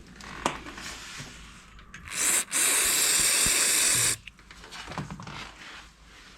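Hiss of an aerosol spray: a short blast about two seconds in, then after a brief break a steady spray of about a second and a half, with light clicks and knocks of handling before and after.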